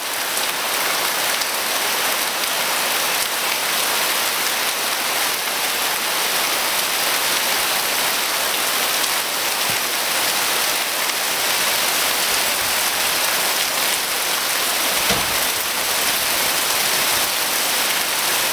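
Heavy downpour: a dense, steady hiss of rain pouring onto a garden, paving and a pool. A brief dull thump about fifteen seconds in.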